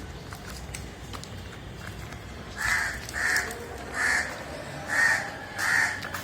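A crow cawing, about five short caws in a steady series starting about two and a half seconds in.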